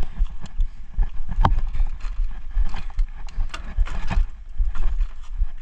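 Irregular crunching and thudding steps on dirt and forest debris, with low rumbling bumps.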